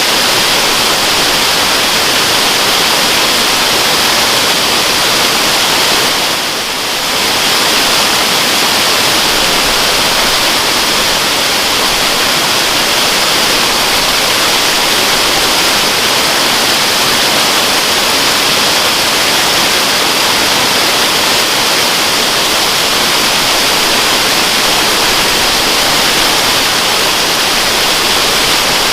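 Waterfall: a steady, dense rush of falling water, hissy and bright, that softens briefly about six seconds in.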